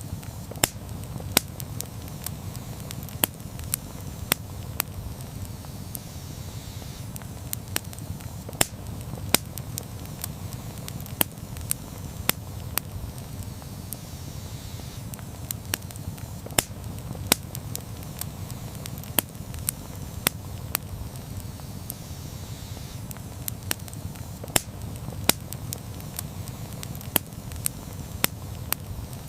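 Campfire crackling: sharp, irregular pops, one or two a second, over a steady low rumble.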